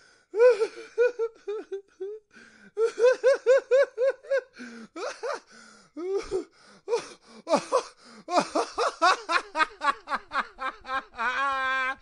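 A person laughing in quick runs of ha-ha-ha pulses, several of them high-pitched. Near the end it turns into one long wavering held note.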